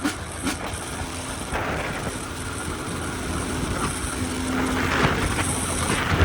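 Dirt bike engine running during a ride, with wind rumbling on the microphone; it grows gradually louder toward the end.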